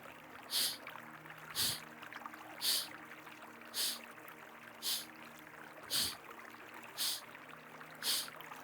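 Kapalabhati breathing: eight sharp, forceful exhalations blown out through one nostril, about one a second, each a short hissing puff. A river runs steadily underneath.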